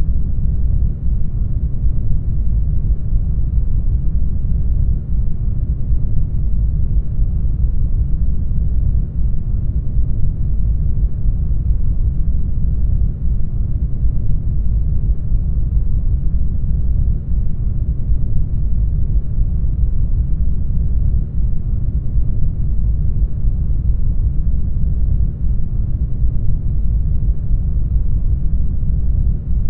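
Brown noise: a steady, unchanging deep rushing hiss, strongest in the low end and thinning out toward the highs.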